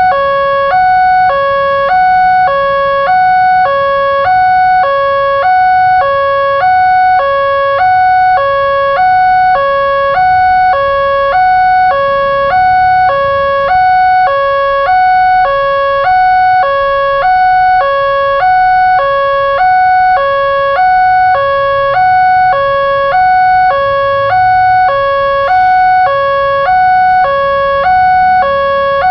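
Indonesian railroad crossing warning alarm sounding a steady electronic two-tone ding-dong, switching between a lower and a higher tone about twice a second, over a low rumble.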